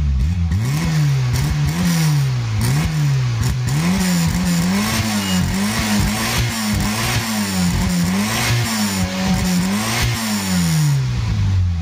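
Motocross bike engine revving up and down over and over, its pitch rising and falling about every three quarters of a second, a dozen or so times.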